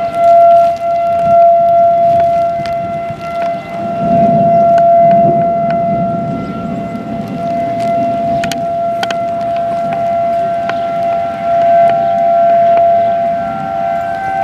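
Outdoor tornado warning siren sounding a steady, held tone, with a second close pitch just above it.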